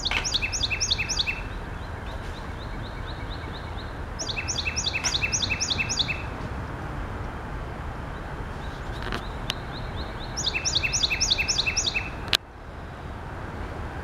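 A songbird singing outdoors: three bursts of fast repeated chirps, each lasting about a second and a half, over a steady low background rumble. A sharp click comes near the end.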